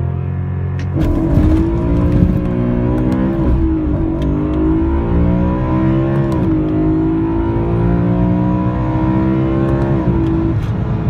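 BMW M3 engine accelerating hard through the gears: its pitch climbs, drops at each upshift and climbs again, several times over.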